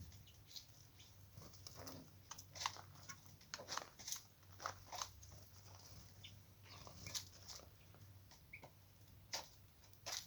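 Irregular light clicks, taps and crunches, a few a second, like an animal pecking or eating, over a faint steady low hum.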